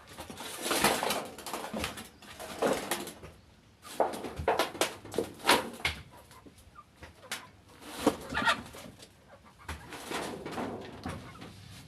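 Chickens making soft clucking calls while feeding on ugali, mixed with irregular sharp taps and knocks.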